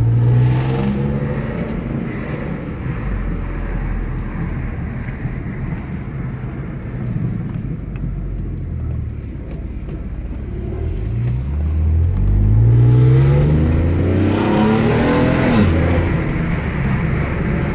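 Alfa Romeo 156's 3.0 Busso V6 running through a freshly fitted sports exhaust while the car accelerates. The engine note climbs several times, most strongly in the last few seconds, then drops back.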